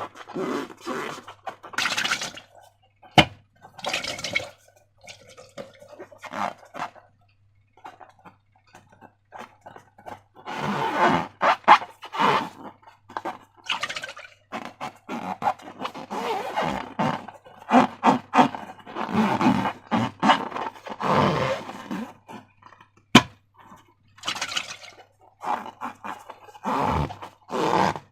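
Slime being squished and stretched by hand, in irregular wet, crackly bursts with short pauses between, and two sharp snaps, one a few seconds in and one near the end.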